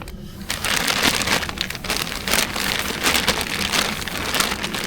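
Falling snowstorm precipitation pattering steadily on a surface, a dense crackly patter of many small hits.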